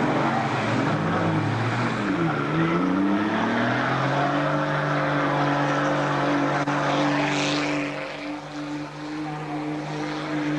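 Racing car engine running, its pitch dipping and rising again in the first few seconds, then held at steady revs for the rest.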